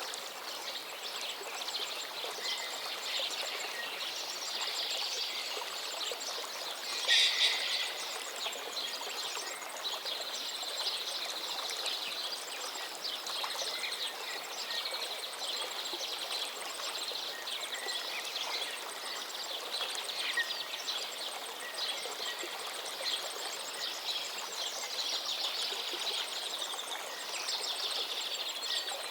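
River water flowing steadily, with birds chirping over it and a brief louder burst about seven seconds in.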